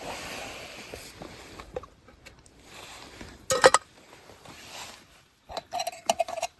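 Metal cookware and utensils clinking and scraping, with one loud ringing clink about three and a half seconds in and a quick run of clinks near the end.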